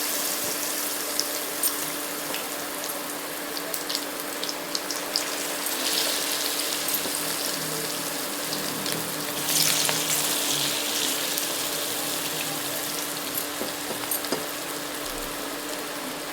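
Chicken pakoras deep-frying in hot oil: a steady sizzle with scattered pops and crackles, swelling louder a few times. A low steady hum runs underneath.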